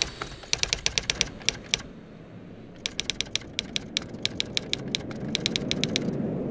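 Typewriter key strikes, sharp clicks at about seven a second, in two runs: a short one early and a longer one starting a little under three seconds in. Low background noise sits beneath and grows toward the end.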